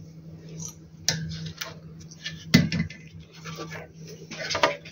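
Scattered small clicks and clatters of hands and tools handling inverter parts and circuit-board pieces on a workbench, the loudest about halfway through. A steady low hum runs underneath.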